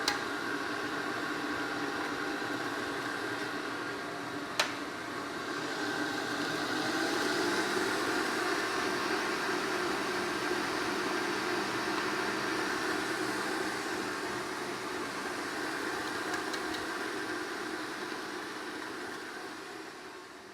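Electric stand mixer running steadily, beating butter, sugar and eggs into a cake batter, with a faint motor hum under the noise. A single click about four and a half seconds in; the sound dies away near the end.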